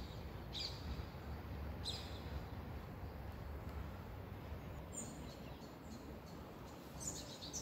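A few short, high bird chirps scattered over a faint, steady low background noise.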